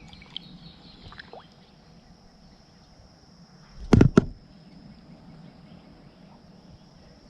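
Two sharp knocks in quick succession about four seconds in, as something strikes the jon boat, over a quiet background with a faint steady high-pitched hum.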